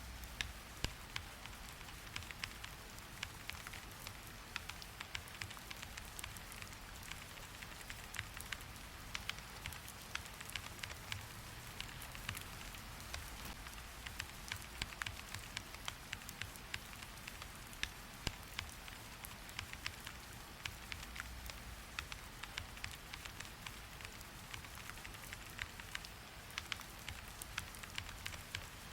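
Rain falling steadily, with frequent irregular sharp ticks several times a second.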